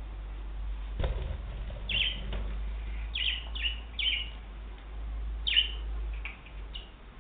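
Pet budgerigar giving a scattered run of short, sharp chirps, about half a dozen, each falling in pitch, over a steady low rumble with a single knock about a second in.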